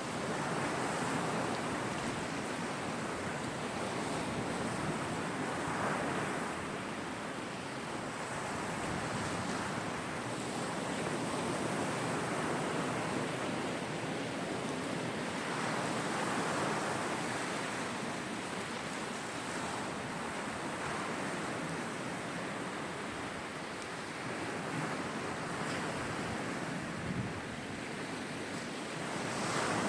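Caspian Sea waves breaking and washing up the shore: a steady wash of surf that swells and eases every few seconds.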